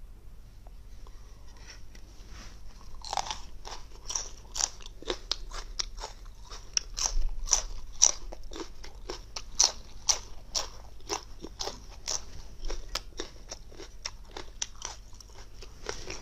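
Close-up crunching and chewing of fresh bird's eye chilies: crisp bites, a few a second, beginning about three seconds in.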